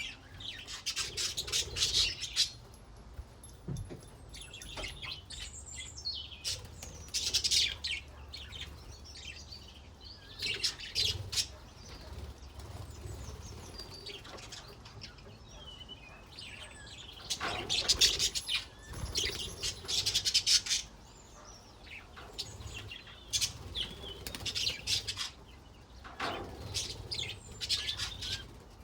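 Budgerigars chattering and warbling in repeated bursts of scratchy, high-pitched chirps.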